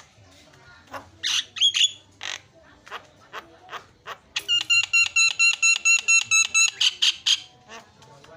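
Javan myna singing: scattered harsh squawks and clicks, then, a little past the middle, a fast run of about a dozen identical ringing notes, some six a second, for about two seconds, followed by more harsh squawks.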